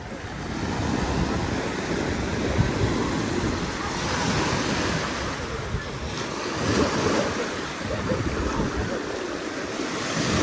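Ocean surf washing onto a beach, swelling louder a few seconds in and again near the end, with wind gusting on the microphone.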